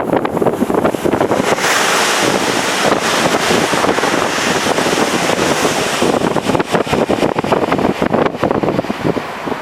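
Strong wind buffeting the microphone: a loud, continuous rushing rumble that starts abruptly.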